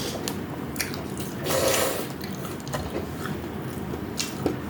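A person eating, close to the microphone: biting and chewing with scattered small clicks, and a louder noisy burst about a second and a half in.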